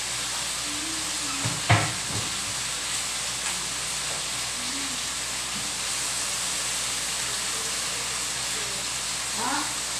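Chicken pieces frying in a wok over a gas flame, a steady sizzle, with a single sharp knock about two seconds in.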